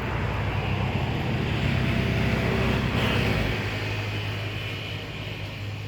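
A motor vehicle's engine running, growing louder to about three seconds in and then fading.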